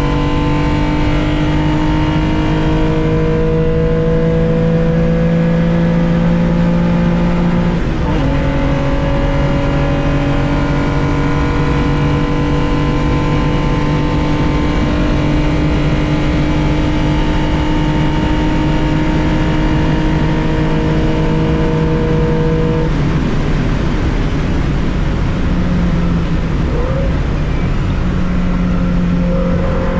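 Onboard sound of a 1965 Porsche 911 2.0's air-cooled flat-six racing under full throttle, revs climbing slowly through a long pull. About eight seconds in the pitch drops sharply with an upshift and starts rising again. Some fifteen seconds later the revs fall away as the driver lifts off.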